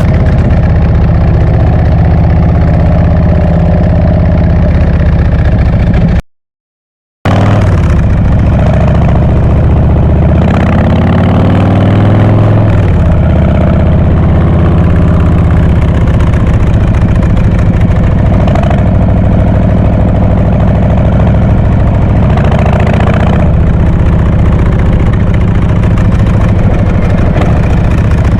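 Harley-Davidson Breakout's V-twin engine running loudly at a steady idle, with a rise in revs around ten to twelve seconds in. The sound cuts out completely for about a second after six seconds.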